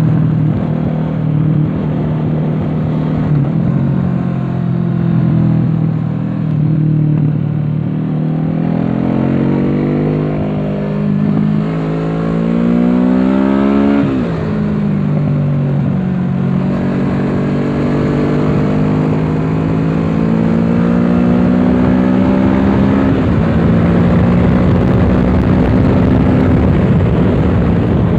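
Kawasaki Z650's parallel-twin engine through an aftermarket Dominator exhaust, heard from on board at speed. The revs climb for several seconds, drop sharply at a gear change about halfway through, then pull up steadily again.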